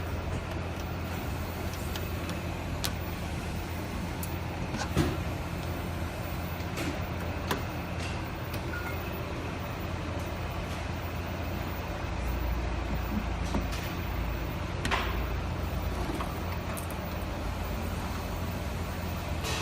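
A steady low hum with scattered sharp clicks and knocks.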